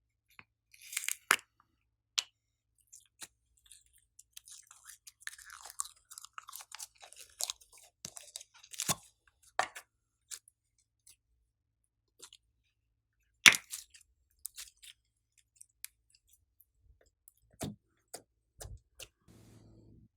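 Glossy slime being squished and kneaded by hand: irregular sharp pops and clicks, with a denser run of crackling from about four to eight seconds in and the loudest pop a little past halfway.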